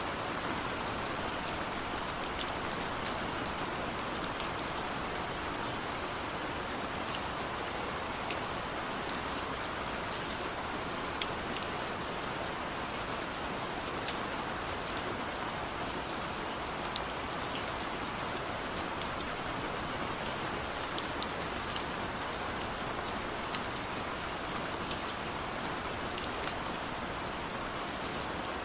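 Steady rainfall: an even hiss of rain with many sharp ticks of single drops scattered through it.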